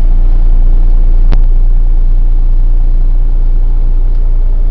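Steady low drone of an engine running, heard inside the boat's cabin, with one sharp click about a second in.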